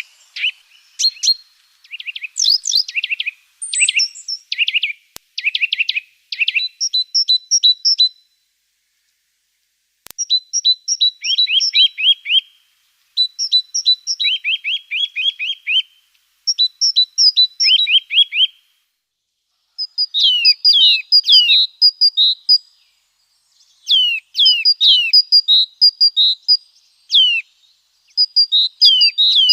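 A songbird singing repeated short phrases, each a few high clipped notes followed by a run of quick downward-slurred notes, with brief pauses between phrases.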